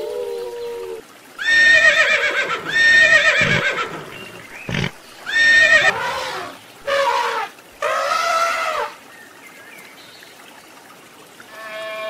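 Horses whinnying, about five neighs in quick succession, each with a shaky, wavering pitch, and a single short knock between them about halfway through. A dog's howl trails off in the first second.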